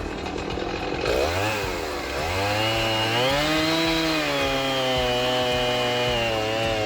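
Chainsaw engine revving up, dropping back briefly, then held at high revs with its pitch wavering slightly, as when cutting through a limb.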